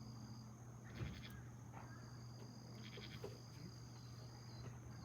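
Insects chirping around a campfire: a steady high-pitched trill with short bursts of rapid chirps every couple of seconds, over a low steady hum. The fire gives a sharp pop about a second in and a smaller crackle a couple of seconds later.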